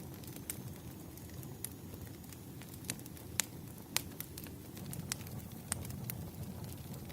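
Wood fire crackling: scattered sharp pops and snaps over a low, steady rumble, the loudest pops a little past three seconds and at four seconds.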